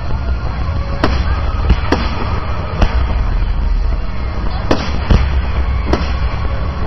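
Fireworks display: aerial shells bursting in a string of sharp bangs, about seven of them, irregularly spaced, over a steady low rumble.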